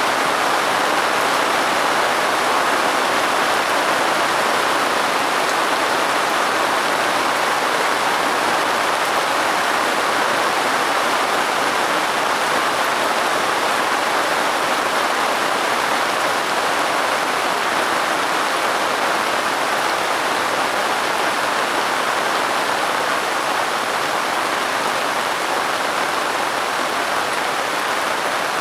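Steady rain falling, an even hiss that holds constant with no thunder or single drops standing out.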